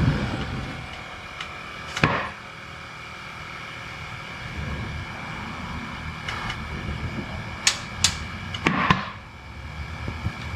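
Several sharp knocks and clicks, five in all: one at the start, one about two seconds in, and three close together near the end. Under them runs a steady faint hum.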